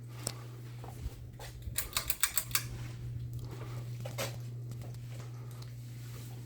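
Ceiling fan running with a steady low motor hum, broken about two seconds in by a quick run of sharp clicks.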